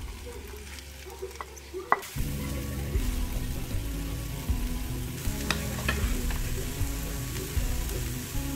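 Chopped bitter gourd scraped with a wooden spoon from a bowl into a clay pot of sautéed onion, with a sharp knock about two seconds in. The pot then sizzles steadily and a little louder as the gourd starts to fry.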